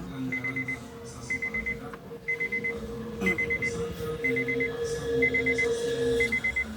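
Electronic alarm beeping in groups of four quick beeps, about one group a second, over a steady hum.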